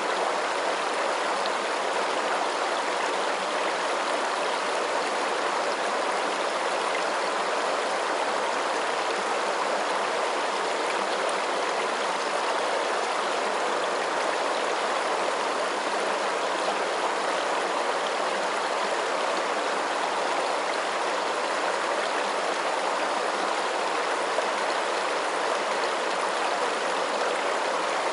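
Flowing water, a steady even rush like a stream, unchanging throughout.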